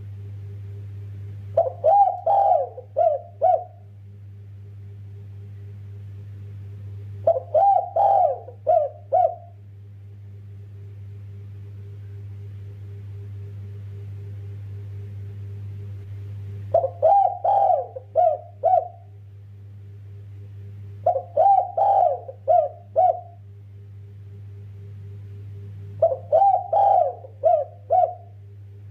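Derkuku dove cooing five times, each phrase a quick run of coos ending in two separate 'kuk' notes, with gaps of several seconds between phrases. A steady low hum runs underneath.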